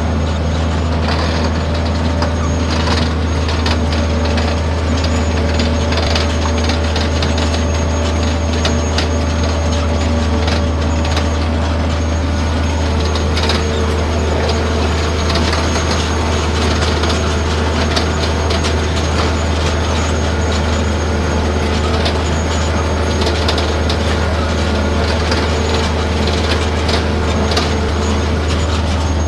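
Dewulf R3000S potato harvester running steadily under load: a constant deep engine drone with a busy clatter and rattle from the harvesting machinery.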